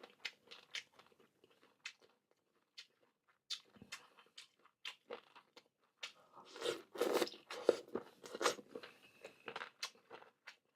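Someone biting and chewing crispy rice crust (guoba) close to the microphone. Light scattered crunches at first, then a louder run of crunching about six seconds in.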